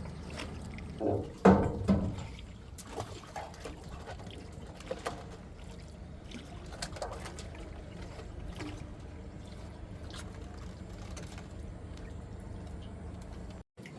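Water splashing and trickling, with a few louder splashes about a second or two in and small drips and splashes after.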